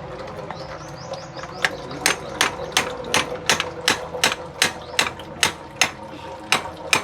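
Hammer blows struck in a steady rhythm, about three a second, starting about a second and a half in.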